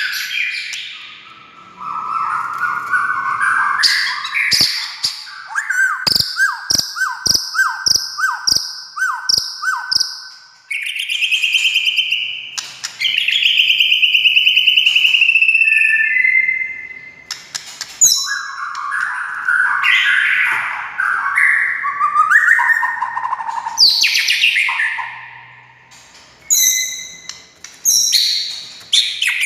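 White-rumped shama (murai batu) singing a loud, varied song: sweeping whistled phrases, a run of repeated clipped notes about two a second, and a long buzzy trill in the middle.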